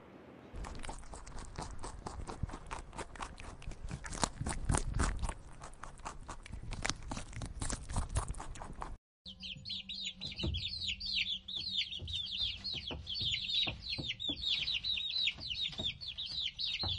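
A dense run of crackles and rustles from a rabbit feeding in grass. Then, after a sudden cut, a group of ducklings peeping: high, quick peeps overlapping without pause.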